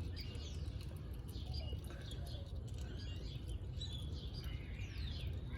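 Small birds chirping and twittering on and off, with a steady low rumble underneath.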